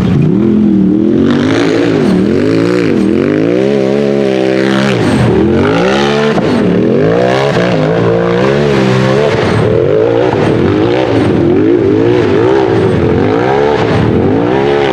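UTV engine revving hard, its pitch rising and falling over and over as the throttle is worked, with one long climb and sudden drop near the middle and quicker blips, about two a second, in the second half.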